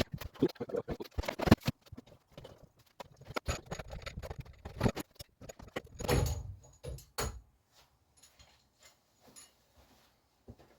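Irregular knocks, clicks and scrapes of hand tools and metal pipework while an old boiler is being taken off. Dense for about seven seconds with a louder clatter around six seconds in, then only a few faint ticks.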